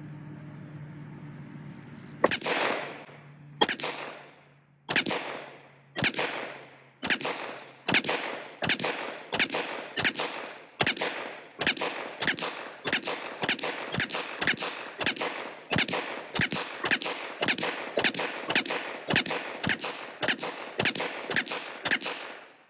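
Ruger PC Charger 9mm pistol firing about thirty single semi-automatic shots, each with a short echo. The first few come well over a second apart, then they speed up to a steady pace of about two a second.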